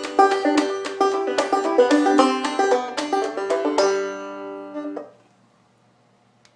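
Fast plucked banjo tune, bluegrass style, ending on a held final chord that cuts off about five seconds in, followed by near silence.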